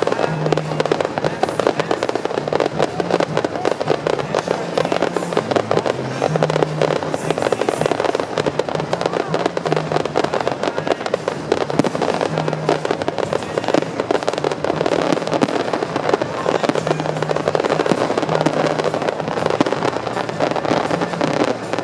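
Dense, continuous barrage of fireworks: crackles and bangs in rapid succession, one over another, with the show's music playing underneath.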